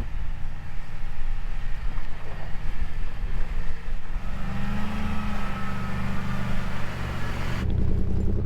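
Vehicle engine running steadily, growing louder about four seconds in.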